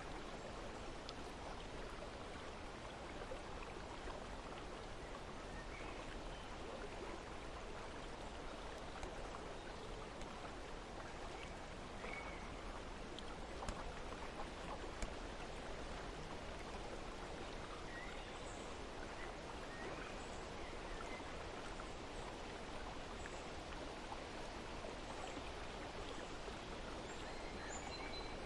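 Steady rushing water, like a stream, with faint bird chirps now and then.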